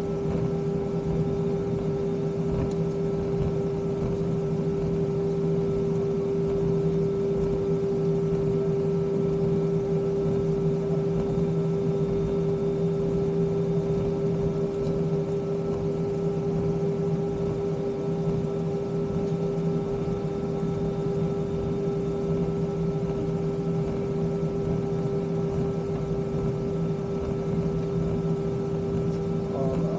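Airbus A320 jet engines at idle, heard from inside the passenger cabin: a steady drone with a constant hum-like tone running through it.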